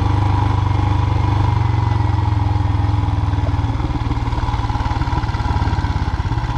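Royal Enfield motorcycle engine running while riding. A little over halfway through, the note drops to a slower, more pulsing beat.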